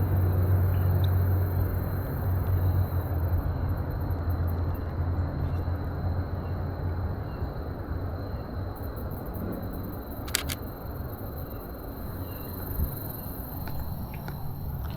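A vehicle engine's low steady rumble that fades away over the first half, with a pair of sharp clicks about ten seconds in.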